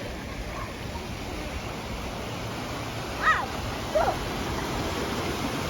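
Steady rush of water noise, with two brief high-pitched sounds a little past the middle.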